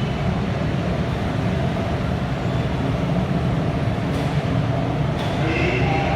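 Train running with a steady, dense low rumble; a few steady higher tones come in near the end.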